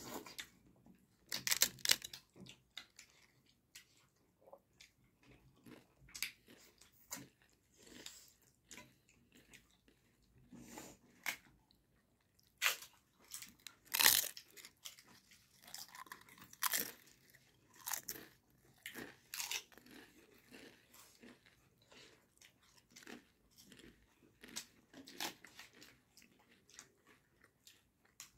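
Close-miked eating sounds: wet chewing of hand-eaten chicken curry and dhido, broken by irregular sharp crunches of crispy fried papad. The loudest crunch comes about fourteen seconds in.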